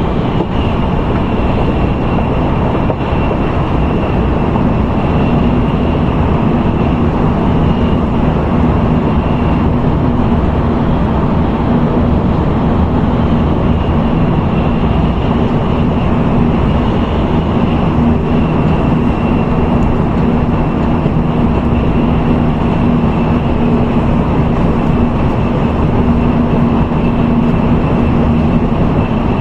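Steady running noise inside an N700A Tokaido Shinkansen car, an even rush with a faint steady high tone and a low hum underneath.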